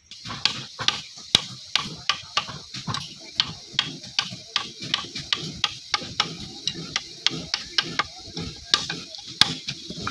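A quick run of sharp knocks, about two to three a second, of a hand tool striking wood, with people talking faintly underneath.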